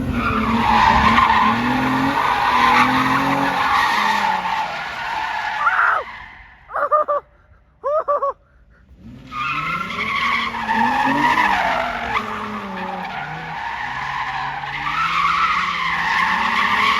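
Drift car's tyres squealing in a long slide, wavering in pitch, over the engine revving. About six seconds in it drops away for about three seconds, with only two short squeaks, then the squeal and engine pick up again.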